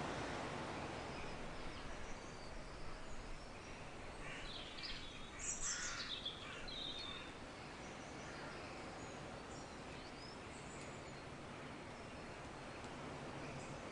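Nature-sound ambience: a soft steady outdoor hiss with birds chirping, a brief flurry of calls about four to seven seconds in and a few faint chirps later.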